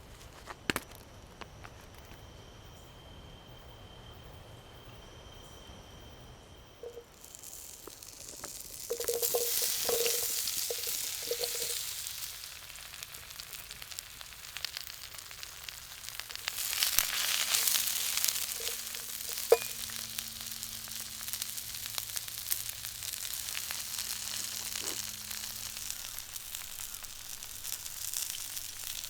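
Food sizzling as it fries in a pan, starting about a quarter of the way in and swelling louder twice, with a sharp click in the middle of the sizzling.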